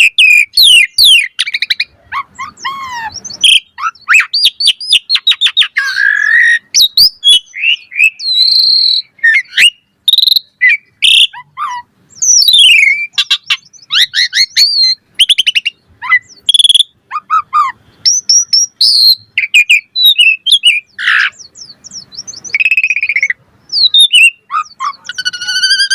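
Asian pied starling (jalak suren) singing a long, varied song: quick whistled notes rising and falling, mixed with fast harsh chattering phrases, in a rapid string with short gaps.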